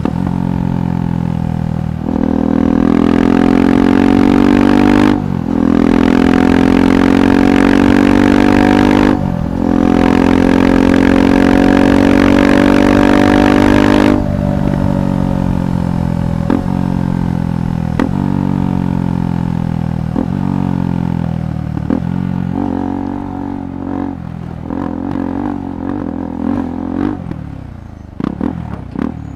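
KTM 390 Adventure SW's single-cylinder engine through a Red Rooster aftermarket exhaust, accelerating hard with rising pitch and two quick upshifts. About halfway through the throttle closes and the engine note falls as the bike slows, with short crackles from the exhaust on the overrun.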